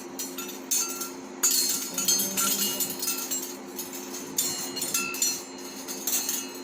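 Metal kitchen utensils clattering and clinking against each other and their stand as they are handled, in a quick run of sharp knocks; super noisy.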